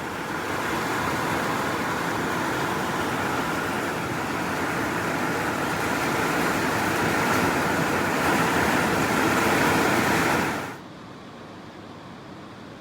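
Heavy rain pouring down as a loud, steady hiss. About ten seconds in it drops suddenly to a quieter, duller rain sound.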